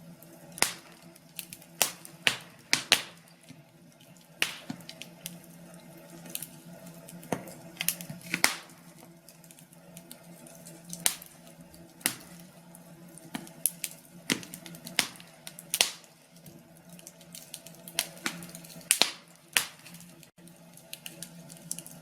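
Wood fire crackling in a fireplace: irregular sharp pops and snaps over a faint steady hum.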